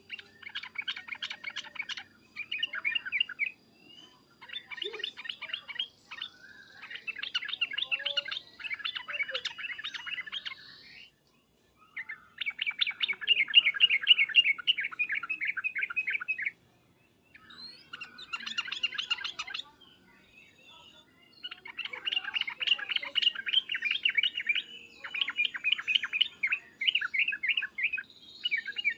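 Yellow-vented bulbul (trucukan) singing loud, rapid chattering phrases in repeated bursts of one to four seconds, with short pauses between.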